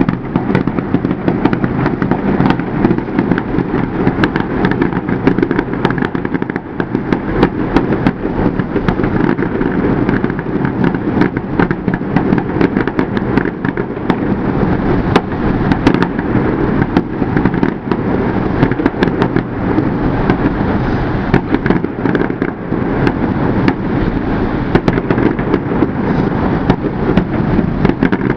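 Fireworks display in a dense, continuous barrage: many bursts and crackles in quick succession with no pause.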